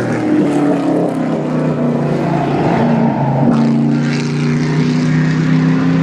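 Euro NASCAR stock car's V8 engine running at steady revs; the pitch dips once about three and a half seconds in and then holds steady again.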